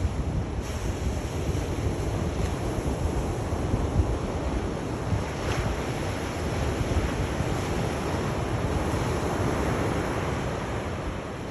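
Sea waves breaking and washing on the shore, a steady rushing surf with gentle swells, with wind buffeting the microphone.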